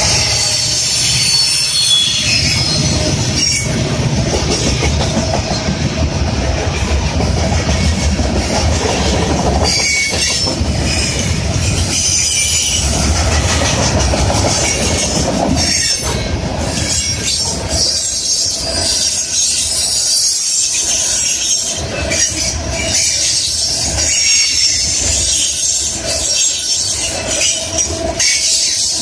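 CN freight train passing close by: the end of its locomotive consist, then covered hoppers and tank cars rolling past. Its steel wheels squeal high and click over the rail joints, the clicks clearer in the second half.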